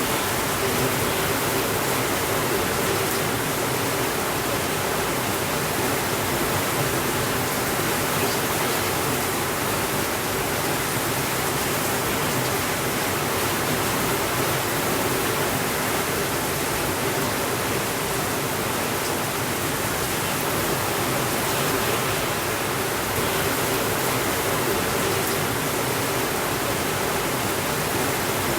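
Heavy rain falling steadily on a window, an even hiss with no thunder.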